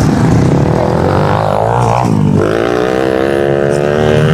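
Small single-cylinder four-stroke pit bike engines from the 110cc race class. Their pitch drops sharply about two seconds in as the throttle is rolled off, then climbs steadily as the bikes accelerate again.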